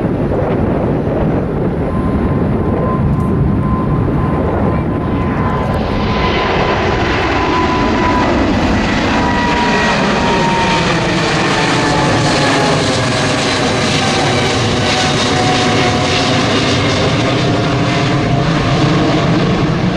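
Airliner's engines as the plane passes, a whine near the top falling slowly in pitch, with a broader, louder rush of engine noise setting in about six seconds in.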